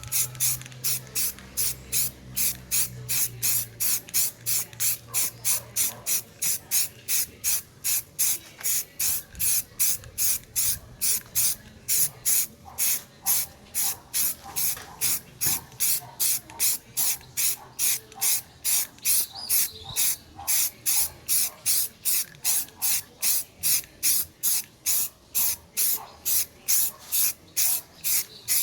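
Primer being sprayed onto a car door panel in short, rapid hissing bursts, about two or three a second, in an even rhythm.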